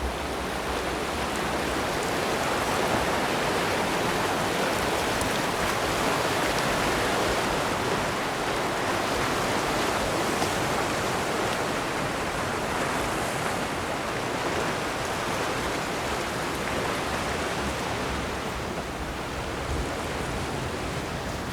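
Steady wash of sea surf against a rocky shore, an even rushing noise without breaks.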